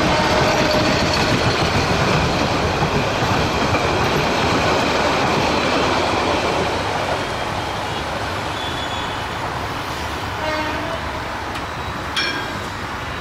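Meter-gauge passenger train rolling past, its coaches rattling on the rails, loud at first and dropping away after about six seconds as it moves off. A sharp click sounds near the end.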